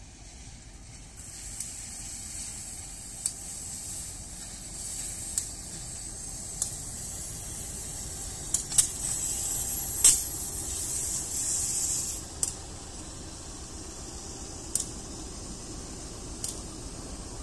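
A CC201 diesel-electric locomotive passes close by, its engine running under load as it pulls a passenger train up a grade. The coaches follow it. Wheels click over rail joints at uneven intervals over a low rumble and a steady high hiss, which grow from about a second in and are loudest as the locomotive goes by, around the middle.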